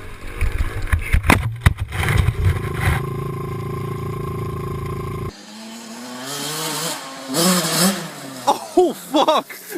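Motocross bike engine running, with a few sharp knocks and then a steady drone, cut off abruptly about halfway through. After the cut come a rising tone and bursts of noise.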